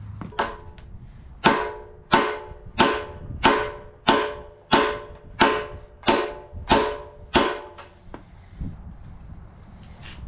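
A hammer striking steel, driving a bushing or pin in: one lighter blow, then about ten hard, ringing metallic blows at a steady pace of about one and a half a second, ending with a couple of light taps.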